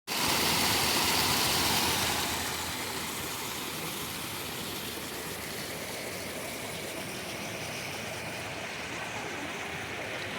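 Waterfall rushing, a steady roar of falling water, louder for the first two seconds and then even.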